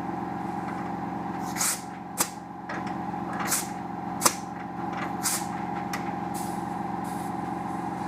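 A jack being run up and locked: short hisses about two seconds apart alternate with two sharp metallic clicks, over a steady machine hum.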